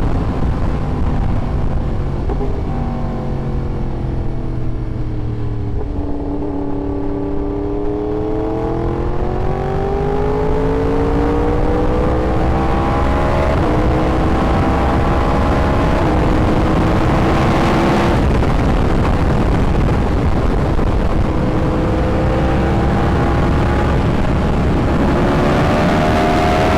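Yamaha R1 inline-four engine under way: its pitch falls for the first several seconds as it slows, then rises again, climbing in a few stages with short breaks, over a steady low rumble.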